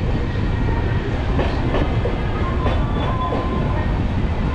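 Passenger train heard from inside an LHB coach while running: a steady low rumble with irregular clicks from the wheels on the track. A faint thin squeal comes and goes about halfway through.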